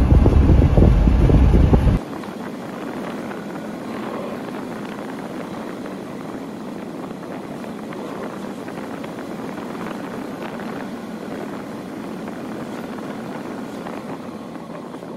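Wind buffeting the microphone with a loud low rumble, cutting off abruptly about two seconds in. After that comes a quieter, steady rushing noise.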